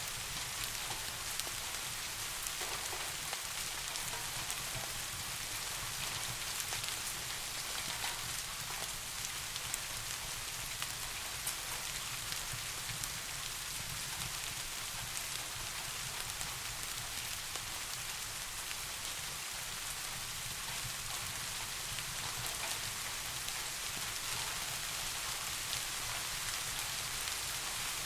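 Steady rain falling on a surface, an even hiss dotted with many fine drop ticks, with a low steady band underneath.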